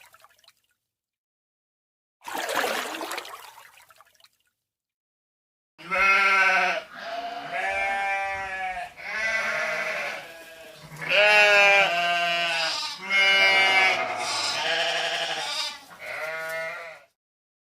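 A farm animal bleating: about seven loud, quavering calls in quick succession, each about a second long. Before them, near the start, comes a short noisy hiss that fades out.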